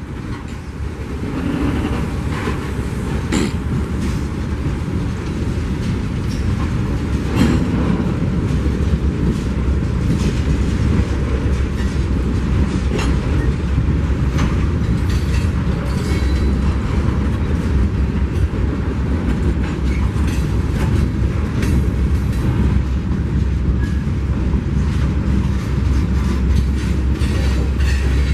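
A train passing close by, its steel wheels clicking over the rail joints in an uneven run of clacks over a steady rumble. It grows louder over the first couple of seconds, then holds.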